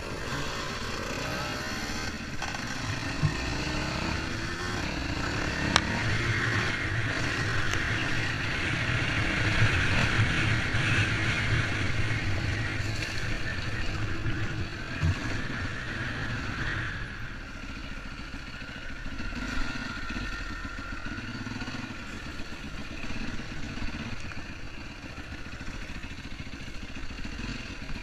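Motorcycle engine running, its pitch rising and falling in the first few seconds, then holding fairly steady.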